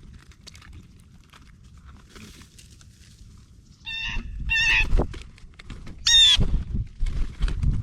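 Three loud, harsh bird calls, each about half a second long, the last one sliding down in pitch, over low thumping from the feeder area.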